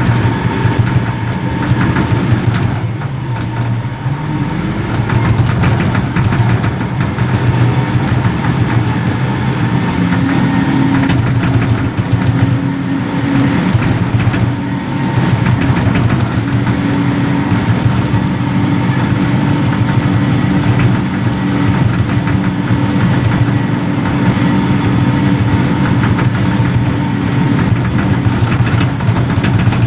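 Reach stacker's diesel engine running steadily under working load, with a higher steady tone joining about ten seconds in.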